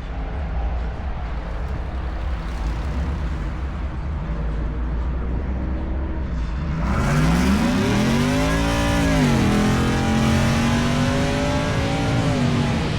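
Car engine revving: after a low steady rumble, it is blipped up and back down about seven seconds in, then held at raised revs for a few seconds before dropping near the end.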